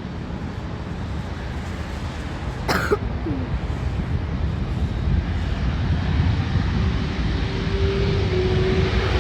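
Steady low rumble with a distant jet airliner's engines, whose whine grows in over the last few seconds as the plane nears. A single cough about three seconds in.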